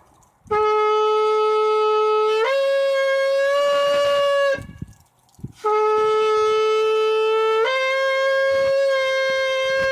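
Shofar blown in two long blasts about a second apart, each starting on a lower note and stepping up to a higher one about two seconds in; the second blast is still sounding at the end.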